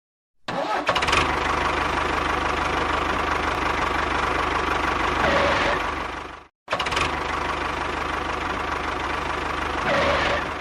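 An engine running steadily with a low, even knock. It cuts out abruptly a little past halfway and starts again at once with the same sound.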